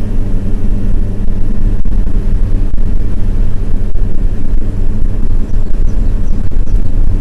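Motor vehicle running: a loud, steady low engine and road drone.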